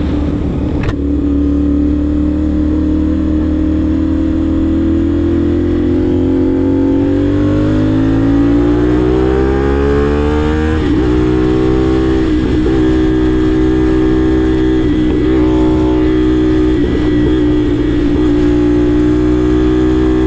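CFMoto 450SR's 270-degree-crank parallel-twin engine accelerating hard, its pitch rising steadily for about ten seconds. The pitch drops sharply at an upshift, and the engine then holds a steady pitch at cruising speed.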